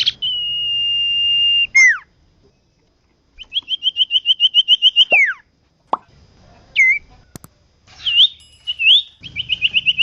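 Common iora singing: a long steady whistle, then fast trills of repeated notes that each end in a falling glide, with single sharp rising and falling notes in between.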